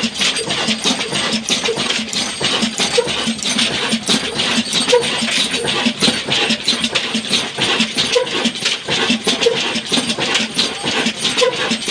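Old Ruston diesel engine running at a steady speed, a fast, even knocking that continues unbroken.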